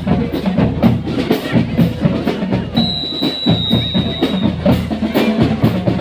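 Parade music played on drums and other percussion, with a steady fast beat. A single high tone is held for about a second and a half around the middle.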